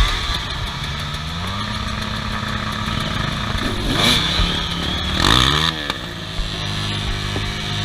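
Off-road vehicle engine running, its pitch climbing about a second in and then holding steady, with short quick revs around four and five and a half seconds in.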